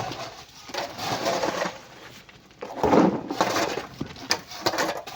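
Chunks of coral rock and sand being loaded, with irregular crunching and clattering and the loudest crunch about three seconds in.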